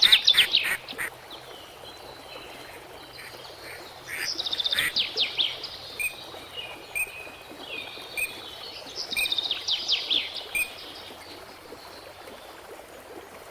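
Songbird singing: short phrases of fast, falling notes, one at the start, another about four seconds in and a third about nine seconds in, with softer chirps between.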